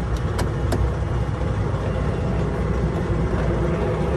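Steady low rumble of an idling engine, with a few light clicks in the first second.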